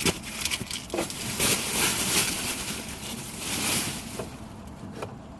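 Rustling of loose trash and packing peanuts being gathered up by hand and pushed into a trash bag, with a few knocks near the start; the rustling is loudest in the middle and dies down near the end.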